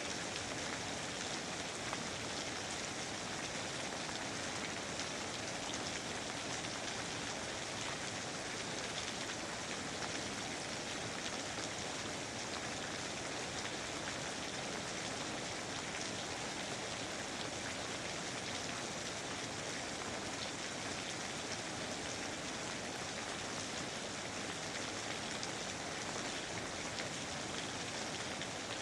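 Steady rain falling on foliage, an even hiss of many fine drops with no change in strength.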